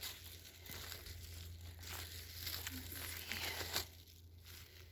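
Crinkling and rustling of a bag being handled as a lichen sample is put into it, with scattered small clicks; it quietens about four seconds in.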